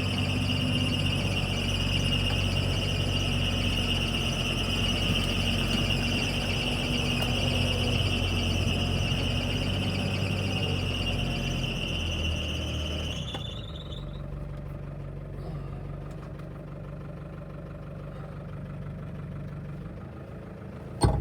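Old truck engine running with its fan belt squealing, a steady high-pitched squeal over the engine's low hum. The squeal rises slightly and cuts off about 13 seconds in as the engine note changes, leaving the engine idling; a short knock comes right at the end.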